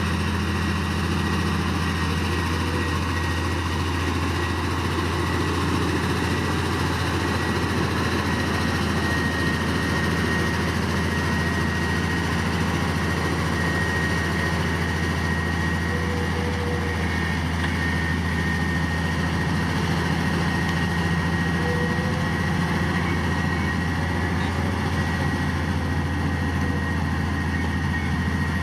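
Heavy earthmoving machine's diesel engine running steadily: a deep, even drone with a thin, steady whine above it.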